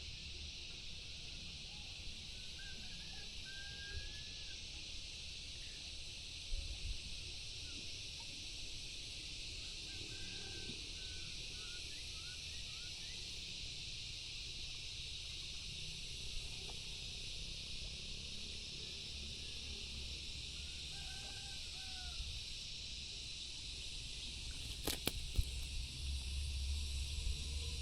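Natural outdoor ambience: a steady high-pitched insect drone with short bird chirps now and then. A few sharp clicks come about 25 seconds in.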